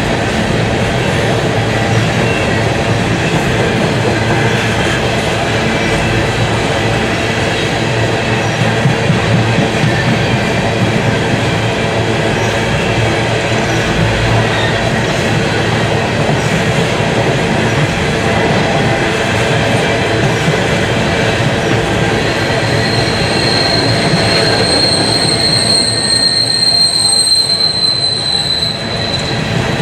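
Empty coal hopper cars of a freight train rolling past with a steady rumble and clatter of wheels on rail. About two-thirds of the way in, a high steady wheel squeal comes in and lasts several seconds.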